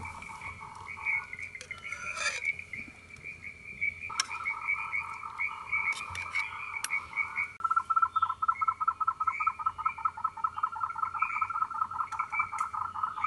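Frogs calling in a chorus: several rapid pulsed trills overlap, and a louder, faster trill sets in about halfway through. A few faint clicks sound among them.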